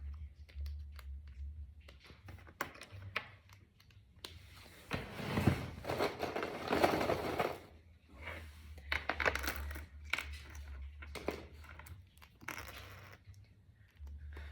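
Small plastic Brain Flakes discs clicking as they are pushed together, with a dense rattle of many loose pieces being rummaged through from about four to eight seconds in.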